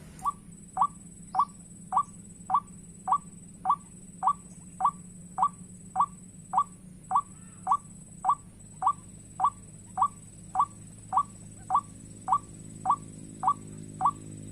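White-breasted waterhen call, one short, sharp, falling note repeated over and over at an even pace of nearly two a second, with a faint steady high whine behind it.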